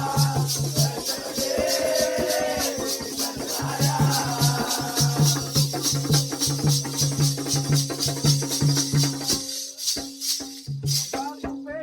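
Jakhadi folk music: a fast, even jingling beat over a held steady tone and a pulsing low beat, with a voice singing during the first few seconds. The low sounds briefly drop out about ten seconds in.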